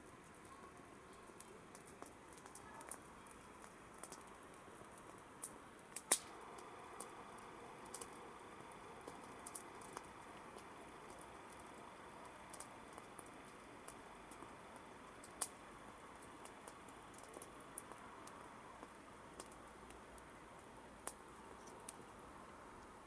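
Campfire burning: irregular sharp crackles and pops of the wood over a soft steady hiss. The loudest pops come about six seconds in and again near the middle.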